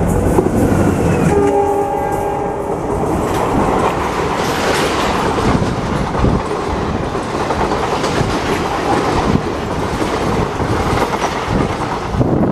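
ALCo WDM-3D diesel locomotive passing at speed, its engine loud at first, then a short horn blast about a second and a half in. The passenger coaches follow, with steady clickety-clack of wheels over the rails.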